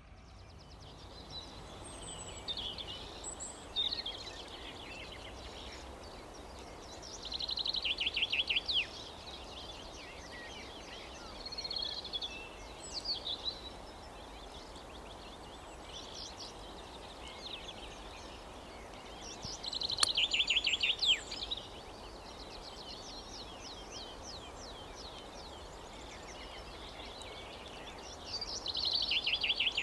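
Songbirds singing over a steady outdoor background hiss, with chirps and loud bursts of rapid trills returning every several seconds. A single brief sharp click comes about two-thirds of the way through.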